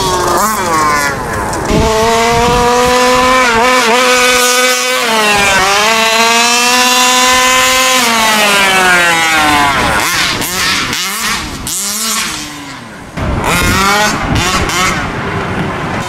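Two-stroke 38cc gas engine of a Rovan Hybrid fifth-scale RC truck, fitted with a Rovan Baja pipe. It revs hard and holds high for several seconds, then eases off and is blipped up and down. Near the end it cuts back briefly before revving up again.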